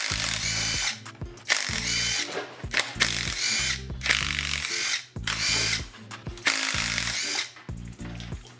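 Handheld power tool spinning up in several short bursts of about a second each, with a high whine; a battery drill or electric ratchet undoing fasteners during engine disassembly.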